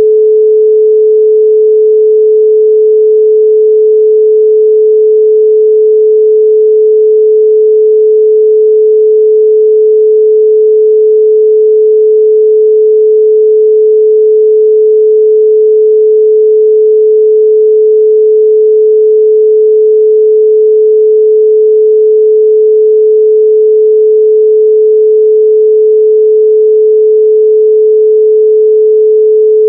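A 432 Hz pure sine tone held steady and loud, with no change in pitch or level.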